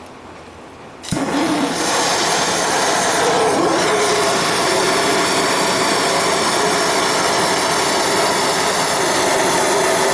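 Gas torch lit with a click about a second in, then its flame runs with a steady loud hiss, heating the razor's handle end to draw its temper while the blade sits in a vise as a heat sink.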